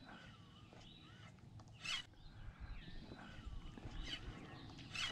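Quiet outdoor ambience with faint distant birdsong, thin whistled phrases, and one short sharp call or click about two seconds in.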